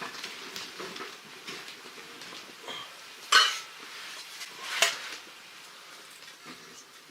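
Metal clinking and two sharp metallic clanks, about a second and a half apart, from handling the steel parts of a wood-burning camping stove, with lighter rustling between them.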